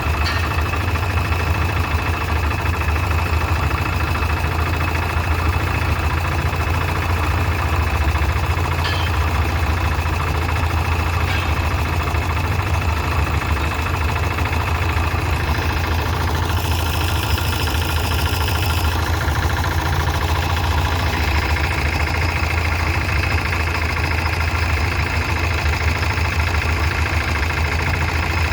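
An engine running steadily at an even idle with a low hum. A brief hiss rises over it for about three seconds past the middle.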